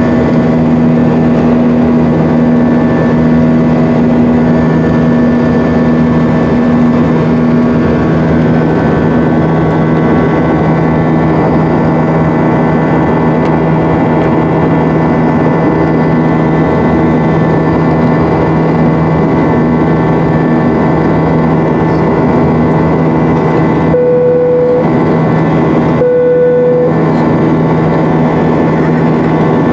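An Airbus A320's IAE V2500 jet engines heard from inside the passenger cabin: a loud, steady drone with several steady humming tones. Twice near the end, a short steady tone sounds while the rest of the sound briefly dips.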